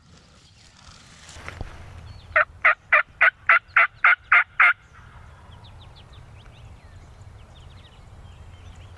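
A run of nine loud, evenly spaced turkey yelps, about four a second, lasting a little over two seconds. Faint high bird chirps follow.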